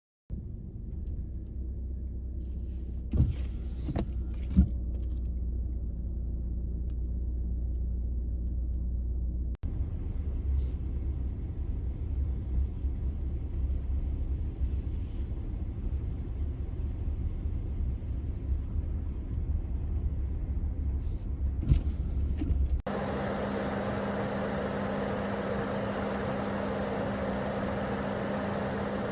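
Car driving, heard from inside: a steady low rumble of engine and road noise with a few sharp clicks. The noise changes abruptly twice, the last stretch hissier with a steady hum.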